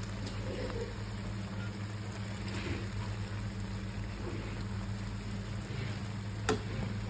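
Pan of spiced water with Maggi noodles simmering and bubbling over a steady low hum, with one sharp click about six and a half seconds in.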